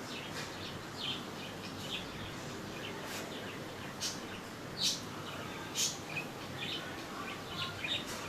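Birds chirping: short, high calls at irregular intervals over a steady background hiss. The loudest chirps come about five and six seconds in.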